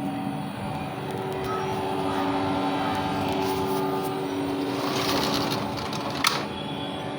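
Air conditioner running with a steady hum. A short rush of noise comes about five seconds in, and a single sharp click a second later.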